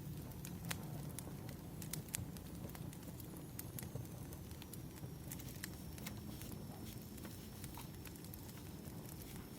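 Wood fire crackling: irregular sharp snaps and pops over a low, steady rumble of burning logs.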